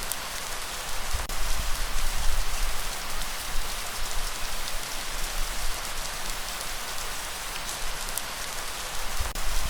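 Light rain falling steadily as a dense, even hiss of drops. A low rumble swells about a second in and again near the end.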